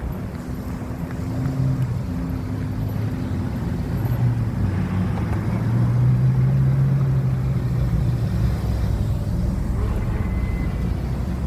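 Pagani V12 engine running at low speed as the car rolls in, a low steady drone that grows louder until about six seconds in and then holds.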